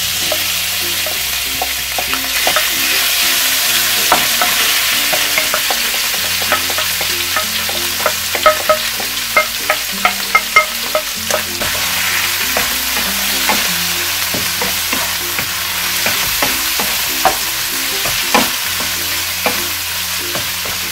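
Flaked salmon sizzling steadily as it fries in hot oil and garlic in a frying pan, with a wooden spoon stirring and scraping it, giving many short sharp ticks against the pan, most of them in the middle.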